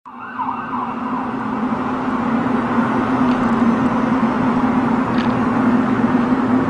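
A steady droning hum with one held low tone over a noisy rumble, slowly getting louder: a recording of the unexplained 'skyquake' or strange sky sound.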